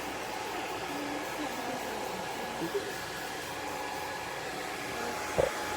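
Handheld hair dryer blowing steadily with a faint motor whine, used to dry a cat's coat. A single brief, louder sound stands out near the end.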